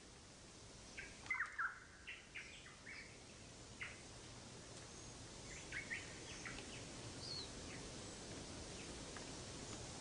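Birds chirping faintly: scattered short calls, a cluster about a second in and more through the middle, over a low steady background hum.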